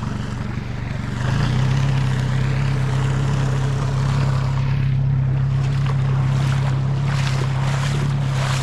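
Boat engine running under load while towing another boat, opening up about a second in to a loud steady drone.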